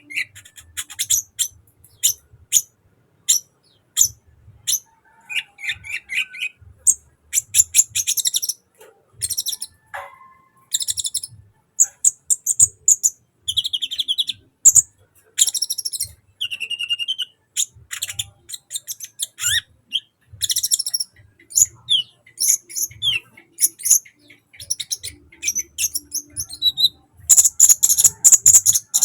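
Sunbird singing a long, rapid chattering song of high chirps, trills and short whistled notes, in quick bursts with brief pauses.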